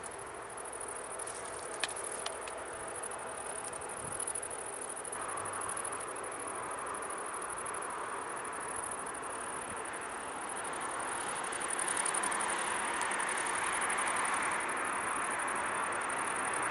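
Boeing 747-400 jet engines heard from afar on approach: a steady rushing that grows louder about five seconds in and again about twelve seconds in. Crickets chirp high and steadily throughout.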